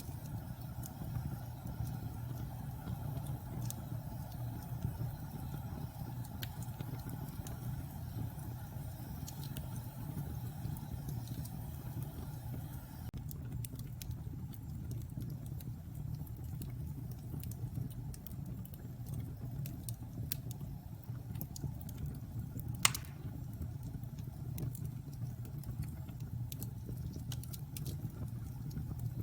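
Wood fire burning in a fireplace: a steady low rumble of flames with scattered small crackles, and one sharp, loud pop a bit over three-quarters of the way through.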